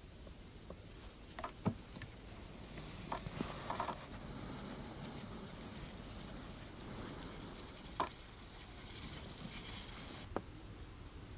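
Huskies running up on packed snow: light, quick footfalls and a faint high jingling, as of collars or harness, that grows as a dog comes close and then stops abruptly, with a few sharp knocks scattered among it.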